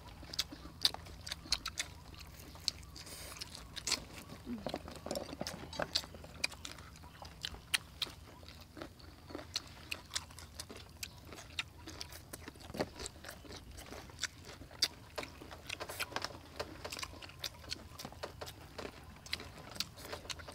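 Crunching and chewing of crispy fried chicken legs in chili sauce: irregular crisp bites and mouth clicks, several a second.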